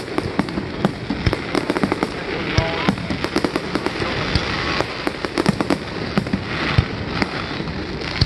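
Aerial fireworks display: shells bursting in a rapid string of sharp bangs and crackles, several a second, over a continuous rumble.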